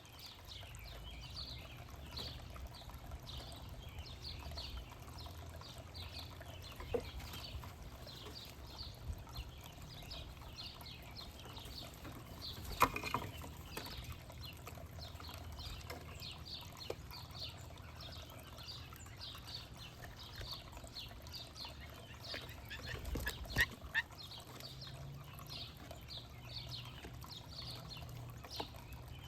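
Backyard songbirds chirping steadily, with many quick, high, short chirps overlapping, over a low background rumble. Two louder sharp knocks come about halfway through and again about three-quarters of the way through.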